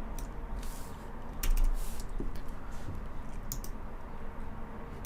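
Computer keyboard typing: a few scattered, irregular keystrokes.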